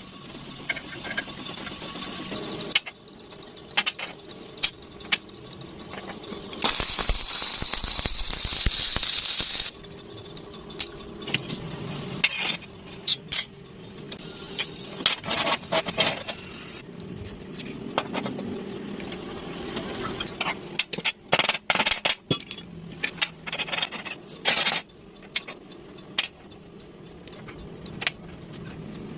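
Metal parts clinking and tapping again and again over a steady low hum, with a loud hissing burst lasting about three seconds.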